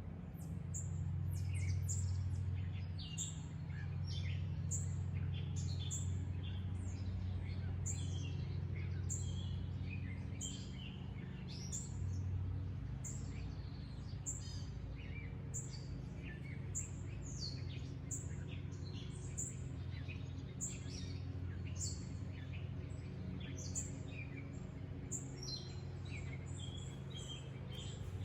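Several birds chirping and singing in a constant stream of short, quick, downward-sweeping notes, over a steady low hum.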